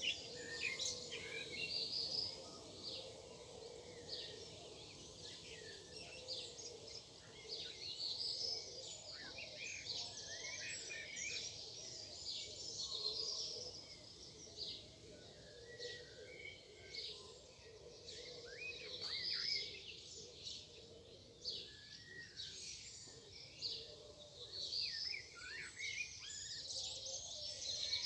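A morning chorus of several songbirds, with many overlapping chirps, trills and short whistled phrases throughout, over a faint steady background hum.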